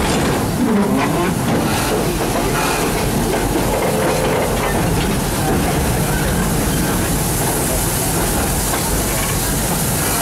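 Park train running along the track, heard from an open passenger car just behind the locomotive: a steady rumble and hiss of wheels, running gear and engine.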